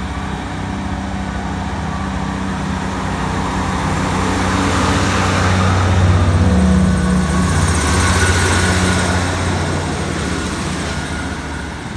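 Class 158 diesel multiple unit moving off past the platform, its underfloor diesel engines running. The sound swells as the train passes, peaking about six seconds in, and then fades away.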